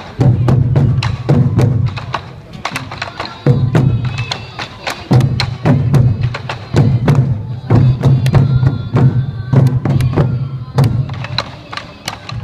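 Sansa odori festival music: taiko drums beating a driving rhythm with sharp, clicking strikes, and a bamboo flute playing held high notes at times.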